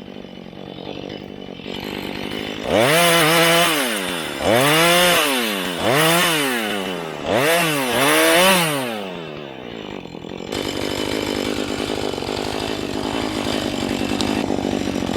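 Husqvarna 435 two-stroke chainsaw idling, then revved up and dropped back four times in quick succession. From about ten seconds in it runs steadily at a higher speed.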